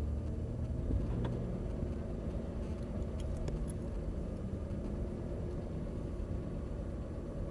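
Aston Martin engine running low and steady in first gear as the car creeps forward at walking pace, heard from inside the cabin.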